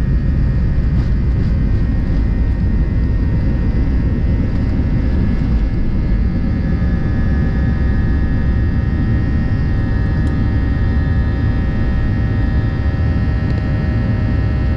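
Airliner cabin noise from inside the cabin: the jet engines and airflow run as a steady, loud rumble with a few constant whining tones above it.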